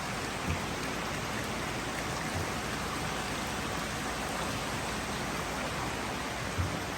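Steady rush of running, splashing water from the koi ponds and their filtration, with a few brief low thumps, the loudest near the end.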